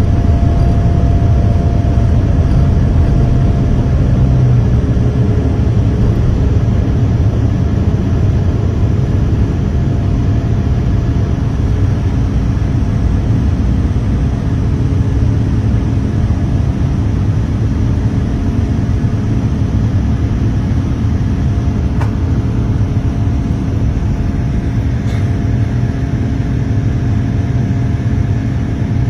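Boeing 787-10 jet engines and airflow heard from inside the passenger cabin: a loud, steady low rumble with a few faint steady tones, easing slightly toward the end.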